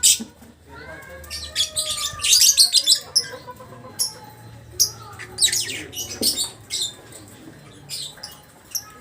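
Lovebird chattering in its long 'ngekek' song: rapid, shrill high-pitched twitters in several drawn-out runs with short pauses between them.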